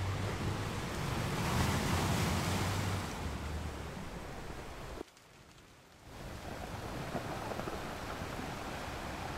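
Steady rushing noise with a low hum, like wind on a microphone. It cuts out suddenly about halfway through and returns about a second later.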